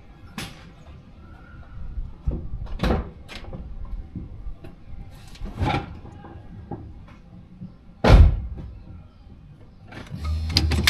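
Scattered clunks and knocks of a car's doors and body, the loudest a heavy thump about eight seconds in, like a door shutting. Near the end a fast, even rattle starts over a low steady hum.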